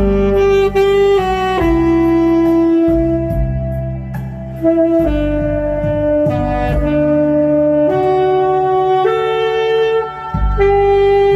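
Saxophone playing a slow melody in long held notes over a backing track with a steady bass line.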